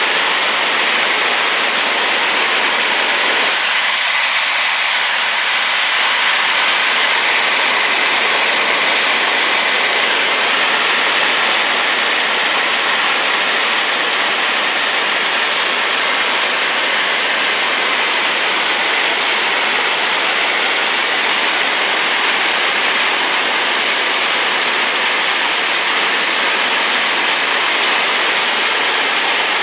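Rain-swollen river waterfall: a steady, loud rush of falling water.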